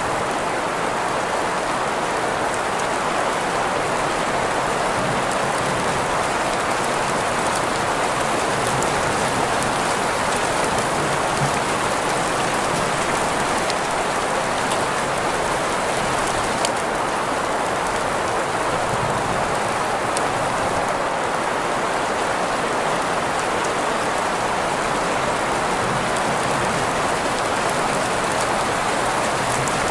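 Steady rain blended with green noise: an even, unchanging hiss weighted toward the middle range, with faint scattered drop ticks.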